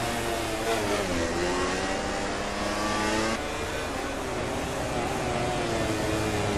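MotoGP racing motorcycle engines revving hard, their pitch rising and dropping as the bikes accelerate and shift, with several engines heard at once.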